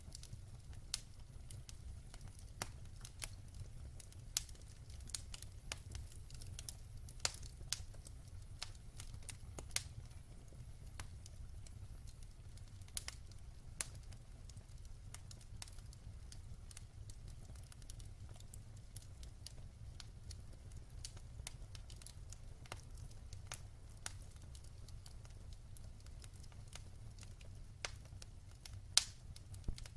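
Wood fire burning in a fireplace: irregular sharp crackles and pops over a steady low rumble of the flames, with a couple of louder pops near the end.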